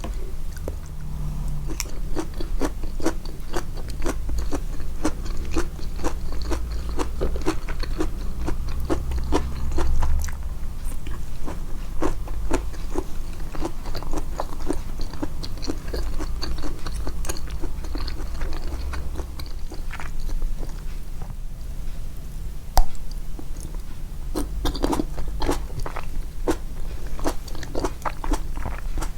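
Close-miked chewing and biting of crunchy food: a dense run of small crisp crunches and wet mouth clicks, with one sharper loud crunch about two-thirds of the way through.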